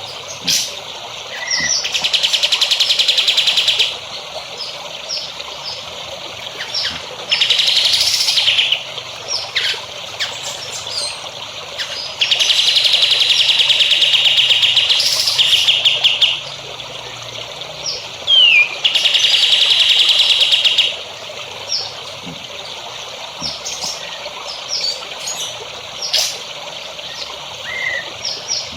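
Songbird singing four long, rapid trills of about two to four seconds each, with short chirps and calls between them, over a steady trickle of running water.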